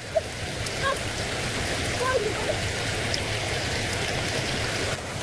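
Steady rushing water noise, even throughout, with a few faint short chirps over it.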